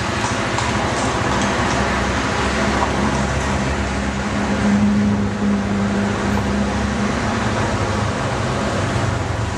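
Motomel 110cc single-cylinder four-stroke motorbike engine running steadily while riding, with road and wind noise. A sustained engine tone rises slightly in the middle and eases off about seven seconds in.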